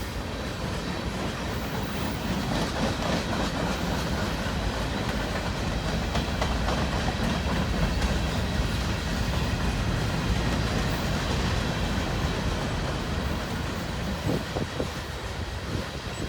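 Freight cars of a long manifest train rolling past, a steady rumble of steel wheels on rail with clickety-clack over the joints and a few sharper clicks near the end.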